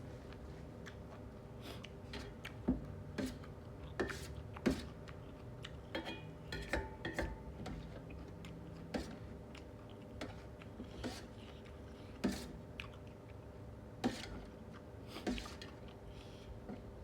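A person eating and chewing, with irregular sharp clicks and taps, over a faint steady hum.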